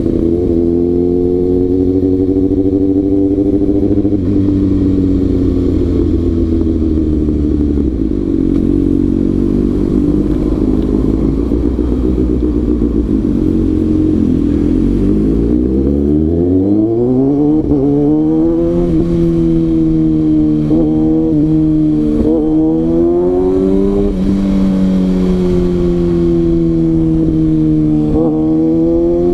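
Kawasaki ZX-6R inline-four sport bike engine running. Its revs fall and hold low for several seconds, then climb hard about halfway through as the bike accelerates, with several quick dips at gear changes.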